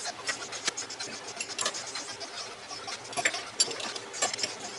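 A rapid, irregular run of sharp clicks and taps.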